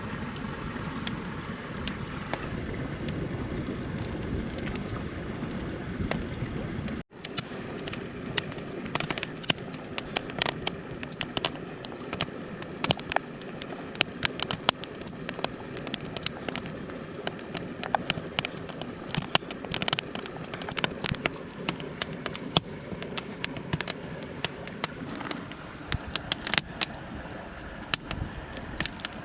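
A mountain stream rushing steadily; about seven seconds in there is a sudden cut, and from then on sharp crackles and pops from the cooking fire come every fraction of a second over the rush of water.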